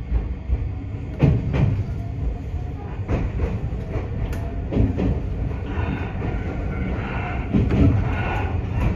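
Iyotetsu 3000 series electric train running along the track: a steady low rumble with wheel knocks over the rail joints at uneven intervals. A higher tone joins in over the last few seconds.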